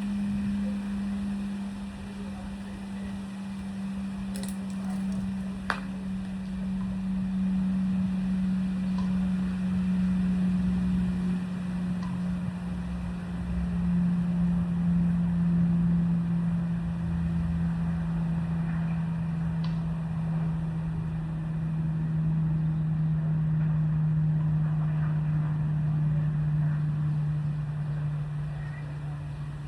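A steady low mechanical hum whose pitch sinks slowly, over a low rumble, with a single sharp click about six seconds in.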